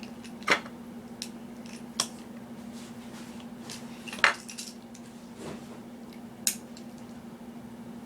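Small sharp clicks and taps from handling toy train pieces and their packaging, four louder ones about two seconds apart. A steady low hum runs underneath.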